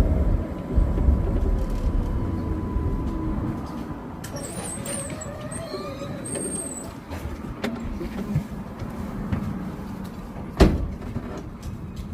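Streetcar running on its rails with a low rumble that eases off about four seconds in, a thin high squeal for a few seconds after that, and one sharp knock near the end.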